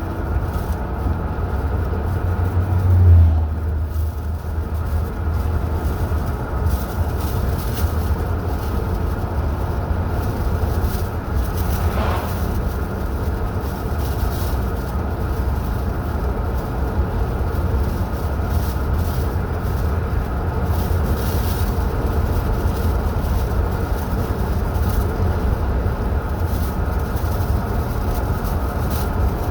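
Car driving on a mountain highway: steady engine and road noise with a deep rumble, swelling briefly about three seconds in.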